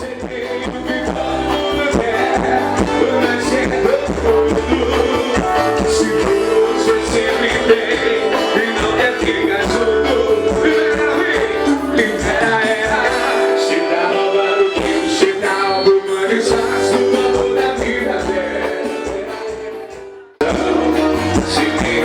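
Live band music with singing, fading in at the start and fading out near the end, then cut short before the music starts again.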